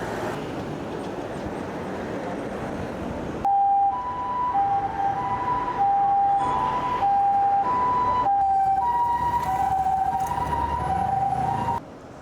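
Street noise, then an ambulance siren in the Japanese hi-lo pattern, two tones alternating about every half second, its pitch sagging slightly in the later seconds as it passes.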